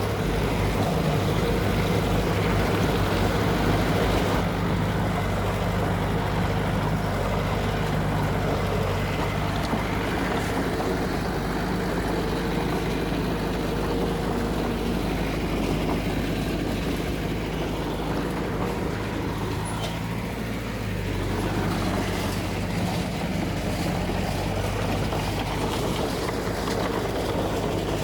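Heavy diesel engine of earthmoving machinery running steadily under load, its pitch shifting about three-quarters of the way through.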